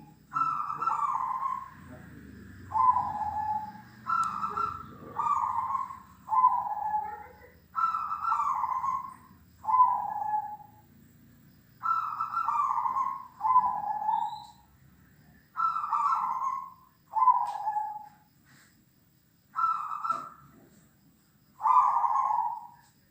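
Zebra dove (perkutut) cooing with a big voice: a long run of short coo phrases, about one every second or two, alternating a higher and a lower note, over a faint low hum.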